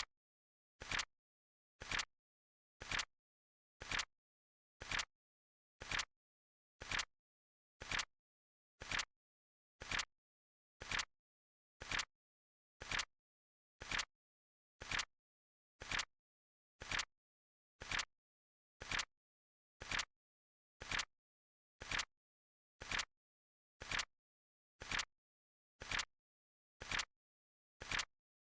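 Countdown-timer clock ticking: one short, sharp click every second, perfectly even, with silence between clicks.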